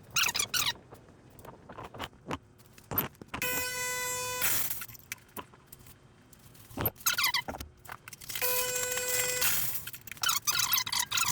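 Sage Bambino Plus espresso machine partway through its cleaning cycle: the pump runs in two short buzzing bursts of about a second each, with spells of sputtering, squeaky hiss in between as water is pulsed through the group head.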